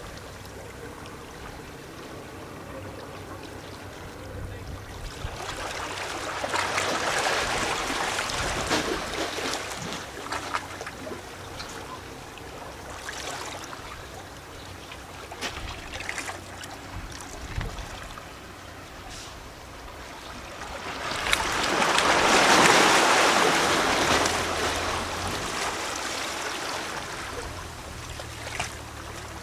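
Small sea waves lapping and splashing against rocks, with sloshing and gurgling. Two larger waves surge in and wash back, one about a quarter of the way in and a louder one about three-quarters of the way through.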